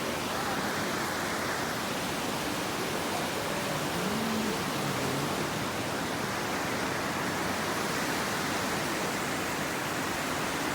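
Chegem waterfall's water pouring down in a steady, unbroken rush of noise.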